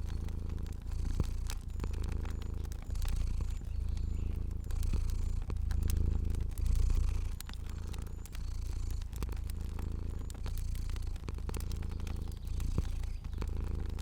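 Domestic cat purring, a low rumble that swells and fades with each breath about once a second, with scattered sharp crackles from a fire.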